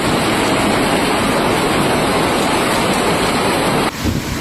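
Heavy storm downpour pouring down in a loud, steady rush, which cuts off abruptly about four seconds in to a quieter rush of rain and wind.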